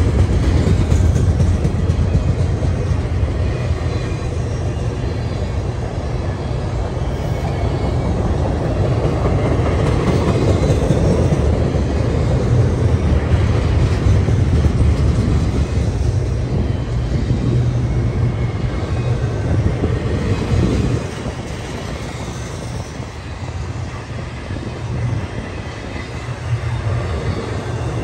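Double-stack intermodal freight train of container well cars rolling past, the steady noise of wheels on rail, heaviest in the low end. It drops noticeably in loudness about three quarters of the way through.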